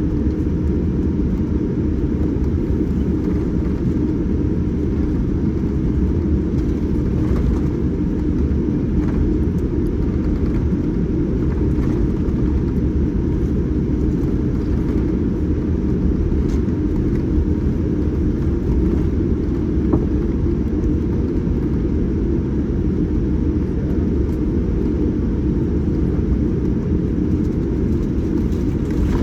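Boeing 787-9 cabin noise: a steady, unchanging low rumble of engines and airflow heard from inside the passenger cabin.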